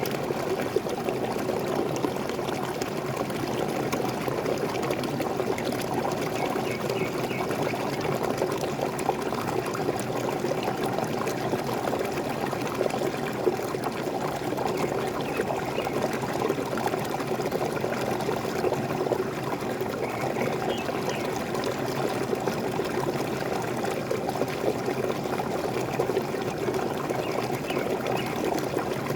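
Waterfall water pouring and splashing steadily, an even rushing sound with no breaks.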